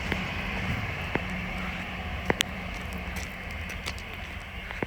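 Freight train running past, a steady low rumble that slowly fades as it draws away, with a few sharp clicks.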